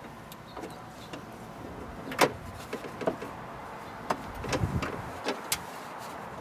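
Scattered clicks and knocks of parts and screws being handled while a window regulator is fitted inside a car door. The loudest knock comes about two seconds in, with a few duller knocks bunched later.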